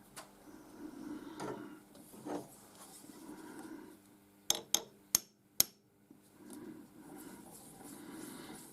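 Four quick, sharp taps on a brass workpiece held in a milling fixture, nudging it slightly sideways and forward to centre the cut, among quieter handling and rubbing sounds.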